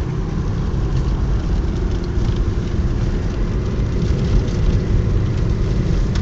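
A Subaru driving up a snow-covered mountain road, heard from inside the cabin: a steady low rumble of engine and tyre noise.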